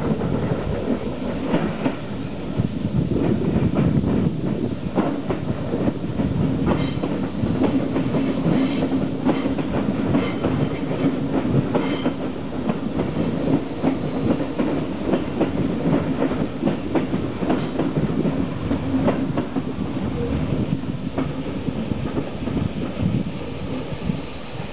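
Athens Metro Line 1 electric train running on the track, its wheels clicking over the rail joints, with a steady low hum.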